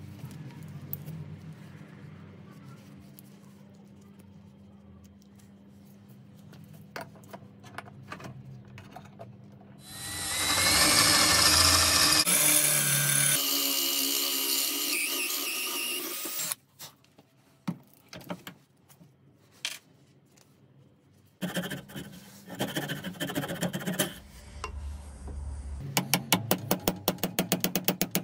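Electric power tool running for about six seconds midway, the loudest sound here, with scattered clicks and knocks of tool handling around it and a quick run of rapid ticks near the end.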